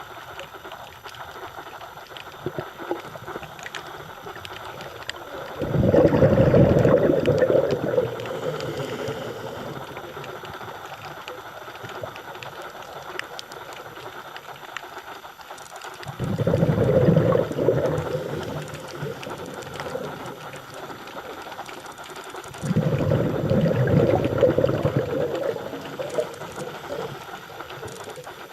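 Scuba diver exhaling through a regulator underwater: three bubbly bursts of about two seconds each, over a steady background of faint crackling clicks.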